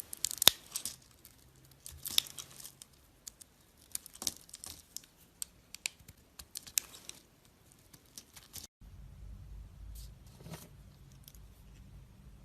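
A knife cutting and scraping into a bar of soap, with crisp crackles and snaps; the sharpest snap comes about half a second in. After a break near the end, a few softer cuts sound over a low hum.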